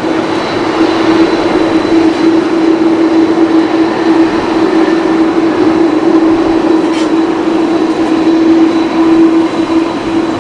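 Airbus A330-302 airliner's twin jet engines running loud and close, a steady roar with a strong, even hum tone through it.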